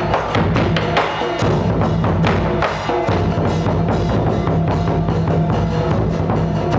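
Percussion-led music: quick, dense drum and wood-block strikes over a steady low tone.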